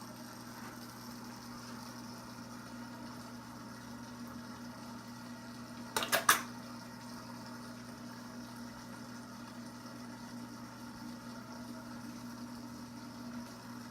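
Steady low hum of aquarium equipment, such as a filter or pump, with a faint watery hiss. About six seconds in there is a quick cluster of three or four sharp clicks.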